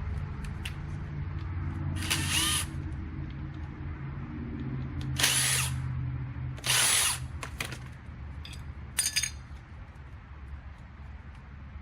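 Power drill running with a steady hum and three louder surges about 2, 5 and 7 seconds in, then easing off around 8 seconds, a few clicks following. It is turning over a lawnmower engine that seizes up every few turns.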